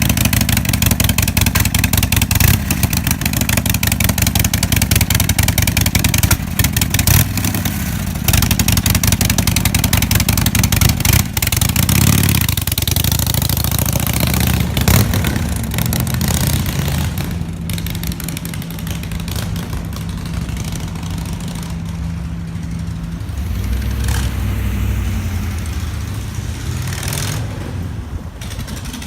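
Harley-Davidson Sportster 1200 Low's air-cooled V-twin running just after start-up and revved in short blips several times. About halfway through it drops to a quieter, steadier run.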